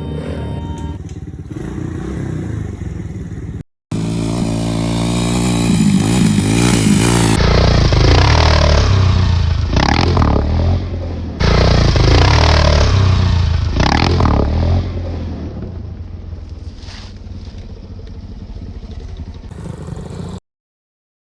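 Small dirt bike engine running and revving, its pitch rising and falling as the bike is ridden, loudest in two stretches, then cutting off suddenly. Background music plays in the first few seconds before it.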